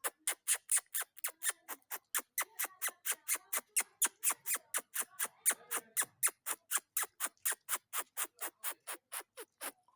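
A rapid, even ticking of sharp clicks, about four or five a second, that starts and stops abruptly.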